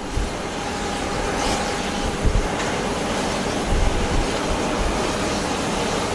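Airliner jet engines running with a steady roar and a faint whine, with gusts of wind buffeting the microphone.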